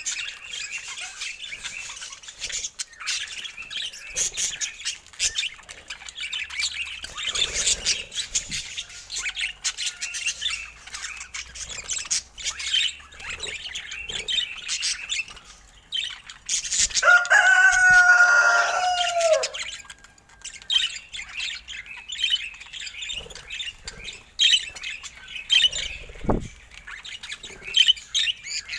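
Budgerigars chattering continuously, a dense run of chirps, tweets and warbles. A little past halfway a louder, lower drawn-out call lasts about two seconds, and a single thump comes near the end.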